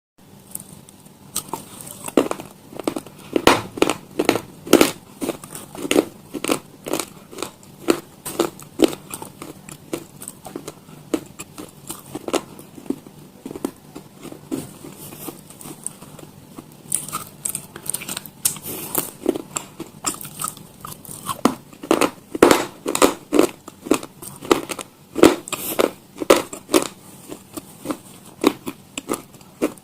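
Close-miked eating: crisp, crunchy bites and chewing, sharp crunches coming about two or three a second.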